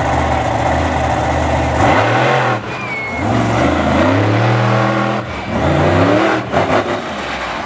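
Monster truck engines revving hard through a race run, the pitch climbing and falling back again and again as the throttle opens and shuts over the jumps.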